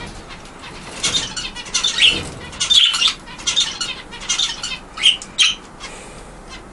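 Budgerigars chirping and chattering in short, high, irregular calls, with bursts of wing fluttering.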